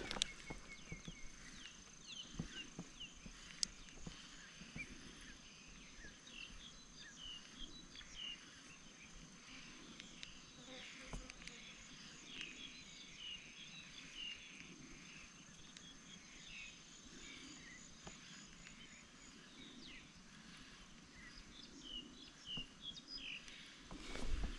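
Faint outdoor ambience: many short bird chirps over a steady, high, thin insect drone, with a few louder rustling noises near the end.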